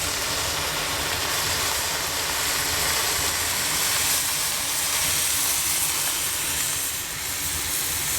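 Steady hiss of water flashing to steam in the steam generator of a hot Vira sauna stove, with a low rumble underneath.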